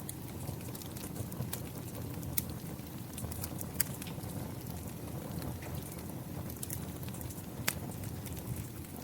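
Wood fire crackling, with scattered sharp pops, the strongest about 2.5, 4 and 7.5 seconds in, over a steady low rush of rain.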